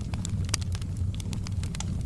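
Firewood burning in a fireplace, crackling with frequent sharp, irregular pops and snaps over a steady low rush of the flames.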